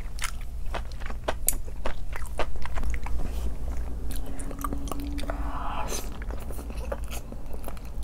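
Close-miked chewing and biting of a chewy, sticky spicy noodle wrap, with many small wet mouth clicks and smacks.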